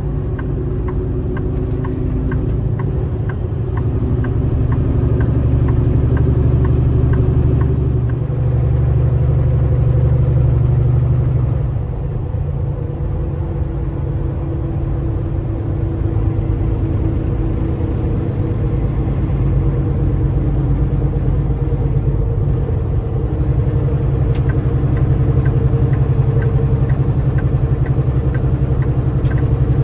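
Semi truck's diesel engine and road noise heard from inside the cab while driving, a steady low drone. The engine note shifts about eight seconds in and again about twelve seconds in, where it briefly drops in level. Faint regular ticking runs through the first several seconds.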